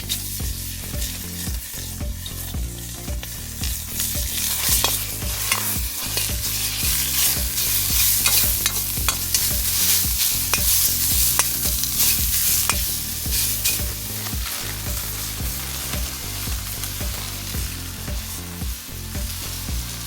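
Food sizzling and frying in a wok over a campfire, with a spatula stirring and scraping against the pan in short clicks. The sizzle is loudest in the middle and eases off toward the end.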